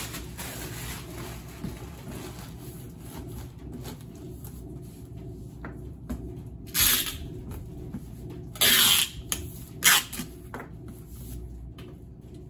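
A parcel being packed by hand, with cardboard and plastic handling noise. Three short loud rasps come in the second half, the longest about half a second.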